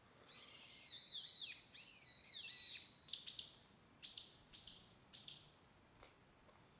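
A songbird singing: a warbling, wavering phrase for about three seconds, followed by four or five short, clear notes that each drop quickly in pitch.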